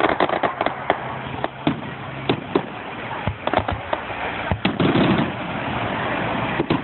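Fireworks going off: a quick run of sharp crackling bangs, then scattered cracks and a deeper rumbling boom about five seconds in.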